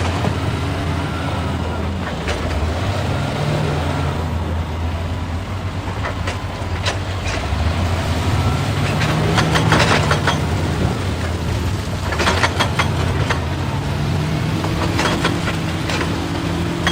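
Excavator's diesel engine running, its pitch rising and falling as the load changes, with bursts of clattering at intervals.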